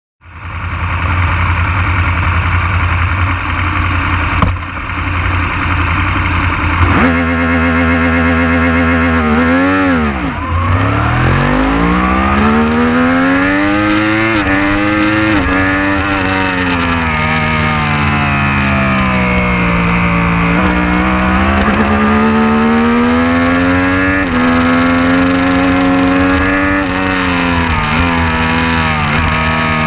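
Superbike racing motorcycle engine running steadily, then revved hard about seven seconds in and accelerating away, its pitch climbing and dropping repeatedly as it changes through the gears.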